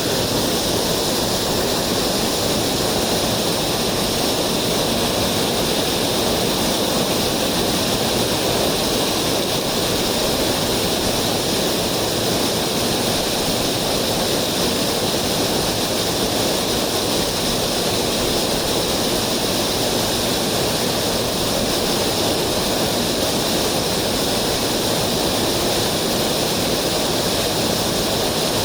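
Mountain stream water rushing over rocks, a steady, unbroken noise.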